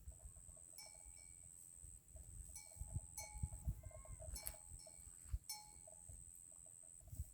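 Livestock bells clinking faintly and irregularly, several separate rings as the animals move, over a steady high-pitched tone.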